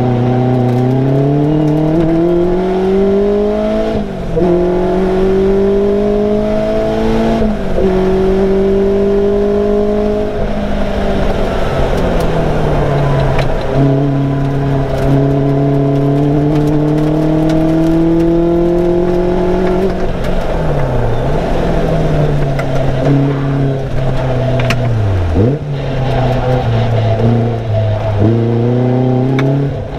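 Caterham Superlight's engine heard from inside the open cockpit, accelerating with a rising pitch that drops back at each upshift, three times in the first ten seconds or so. It then holds steady, falls away as the car slows around twenty and twenty-five seconds in, and climbs again near the end.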